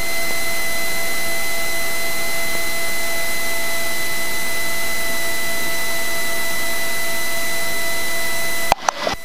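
Steady, loud radio hiss with a few faint steady tones in it, cutting off abruptly with clicks near the end.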